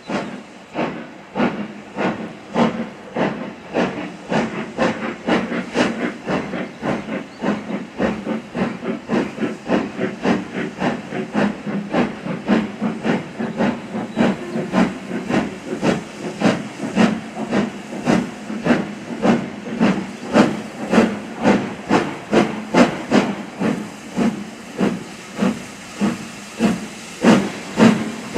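Steam locomotive working under steam, its exhaust beats coming evenly at about two a second, growing louder near the end.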